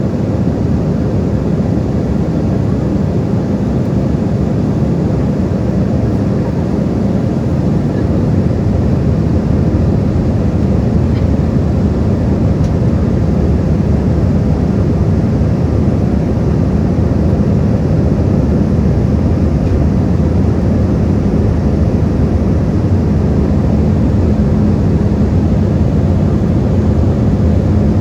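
Steady roar of airliner cabin noise in flight, the engines and rushing air making a deep, even rumble that grows a little louder about ten seconds in.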